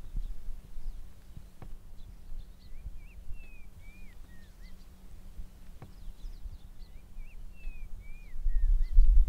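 A bird sings a short phrase of slurred whistled notes twice, with faint higher chirps, over a steady low rumble that grows louder near the end. A few sharp clicks stand out.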